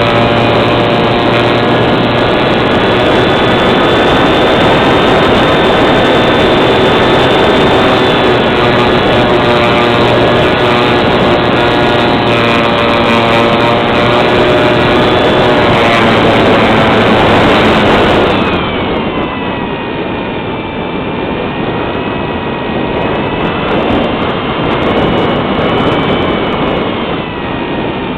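A small engine or motor running steadily at high speed, with a held, many-pitched whine. About two-thirds of the way through it drops in level and its pitch sags, then rises again near the end.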